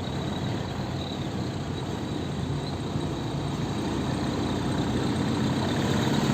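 Truck engine idling steadily, with a low even hum, getting slightly louder toward the end.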